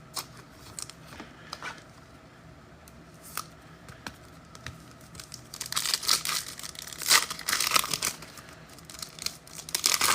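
A trading-card pack wrapper being torn open and crinkled by hand: faint handling clicks at first, then about halfway in a couple of seconds of tearing and crinkling, with another short burst near the end.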